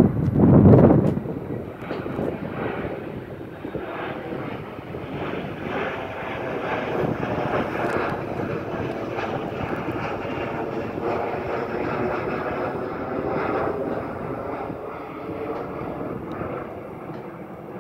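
Jet airliner taking off or climbing out, its engines a steady, rushing roar with a whining tone that eases slightly near the end. A loud rumble of wind on the microphone in the first second is the loudest moment.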